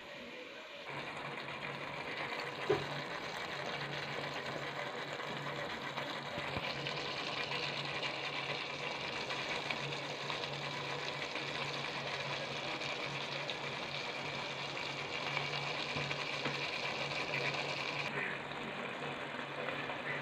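Sliced potatoes sizzling as they fry in oil with onions, tomatoes and spices, the sizzle starting about a second in, with a single knock about three seconds in. A steady low hum runs underneath.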